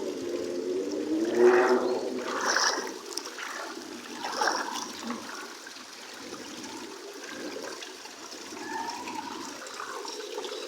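Floodwater flowing steadily, with a few louder surges in the first half.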